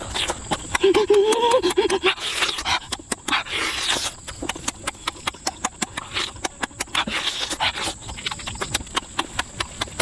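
Crunching and chewing food, many sharp crackly clicks, with a short wavering hum of approval about a second in.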